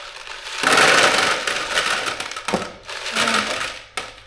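Aerosol can of parts cleaner spraying: a long hiss of about two seconds, then a shorter one, with a sharp click near the end.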